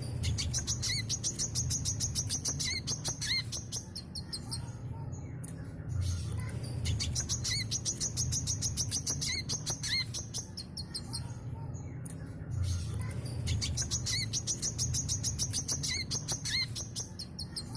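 Brown-throated sunbird (kolibri kelapa) singing in three bursts of about four seconds with short pauses between them. Each burst is a rapid, high-pitched twittering trill with a few lower chirps, and the phrase repeats nearly identically each time. A low hum runs underneath.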